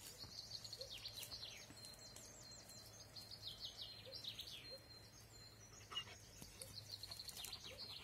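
Faint songbirds singing in quick, repeated falling high notes, over a steady thin high-pitched buzz.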